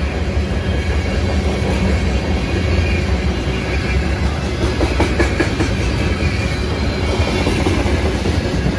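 Freight cars of a BNSF manifest train, tank cars among them, rolling past: a steady rumble of steel wheels on rail with clickety-clack over the joints, and a short run of clanks about five seconds in.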